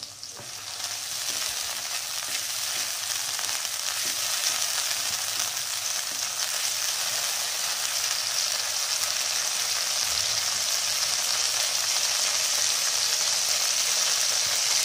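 Chopped onion, green chilli and tomato sizzling in hot oil in a non-stick wok, stirred with a spatula; the sizzle grows steadily louder as the pan heats up on a raised flame.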